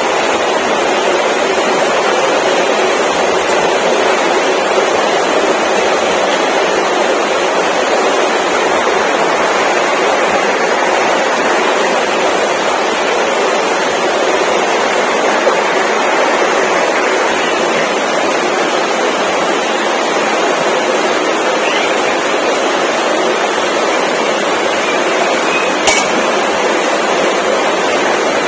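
Steady, even rushing noise with no pitch to it, with one brief click near the end.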